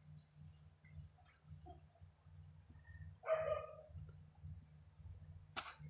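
Small birds chirping: a string of short, high chirps over a steady low hum. One louder, lower call comes about three seconds in, and a sharp knock comes near the end.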